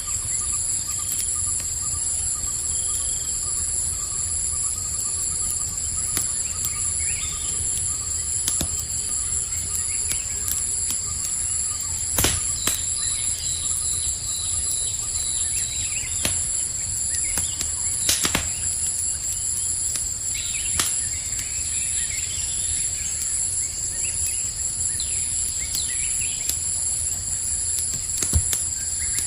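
Campfire burning with a low steady rumble and scattered sharp crackles and pops, the strongest about 12 and 18 seconds in, over a constant high chorus of night insects such as crickets.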